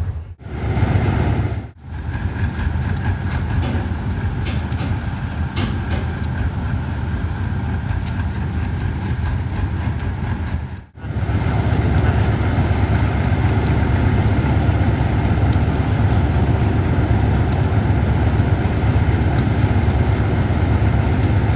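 Diesel train engine running with a steady low rumble, the sound dropping out briefly three times where separate clips are joined.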